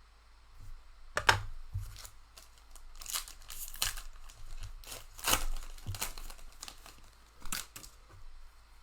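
A trading card pack's wrapper being torn open and crinkled by hand, in several short rustling bursts.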